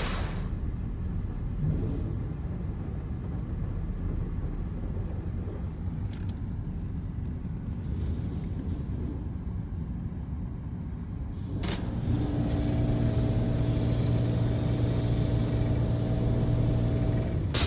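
Touchless car wash machinery heard from inside the car: a low rumble, then about 12 seconds in a machine starts up with a steady hum and a loud hiss of spray.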